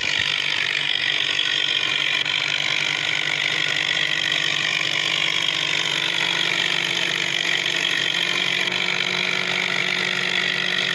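A vehicle engine running steadily, its note creeping slowly up in pitch.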